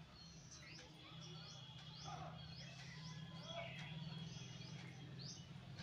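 Faint bird chirping: short high chirps repeating about twice a second, over a low steady hum.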